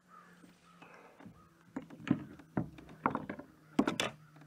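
Irregular sharp knocks and taps, about half a dozen in two seconds and loudest near the end, from a freshly caught bluegill and tackle being handled in a kayak.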